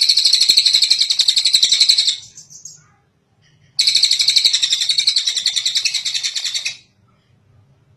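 Tengek cililin songbird singing two long, rapid, high-pitched trills, each about three seconds, with a short gap between them.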